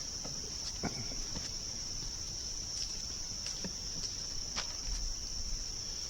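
Crickets chirring in a steady, high-pitched drone, with a few light knocks and clicks scattered through it.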